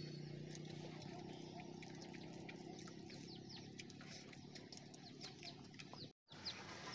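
Faint chirping of birds: many short, high, falling chirps, with a low steady hum in the first second. The sound cuts out for a moment near the end.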